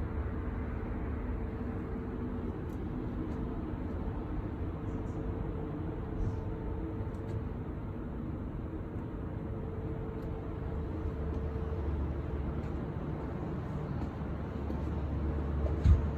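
Sawmill line machinery running steadily: a constant hum with a steady tone and a heavy low rumble, with faint light clicks and one sharp knock near the end.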